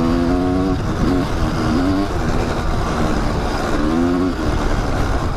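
Kawasaki dirt bike engine running under load in sand, its pitch holding steady and then dropping and rising again as the throttle is worked, over a constant rushing noise.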